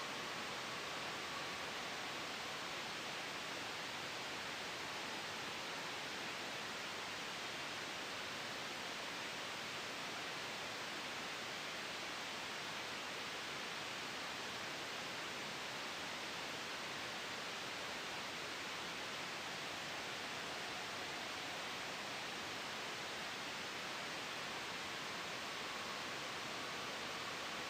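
Steady soft white noise, an even hiss strongest in the mid-highs, blended with a gentle breeze, with no changes.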